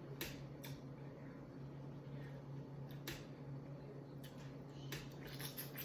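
Quiet eating sounds: a handful of scattered light clicks and mouth noises, a few of them close together near the end, over a steady low hum.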